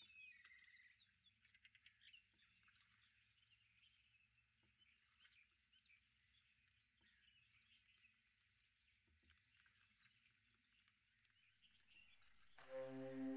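Near silence with faint, scattered birds chirping. Music with sustained wind-instrument tones starts just before the end.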